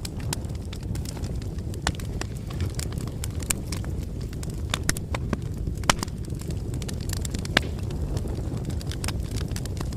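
Wood bonfire crackling: irregular sharp pops and snaps over a low, steady rumble of flames.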